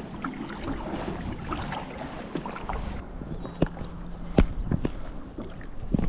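Kayak on choppy water in wind: water splashing and lapping at the hull, with a few sharp knocks, the loudest about four and a half seconds in.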